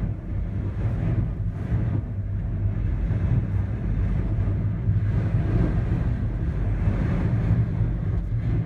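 Steady low rumble of strong wind buffeting the microphone inside a gondola cabin as it rides down its cable, with no sudden events.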